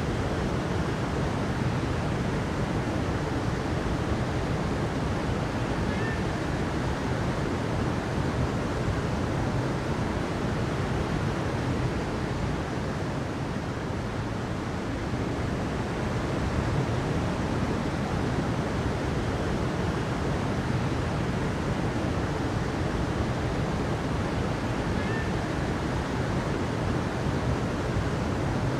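Steady, unbroken rush of flowing water, even in level throughout. A faint short high chirp sounds twice, about six seconds in and near the end.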